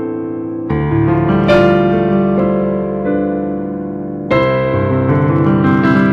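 Slow solo keyboard music: sustained piano-like chords, a new chord struck just under a second in and another past four seconds, each left to ring and fade.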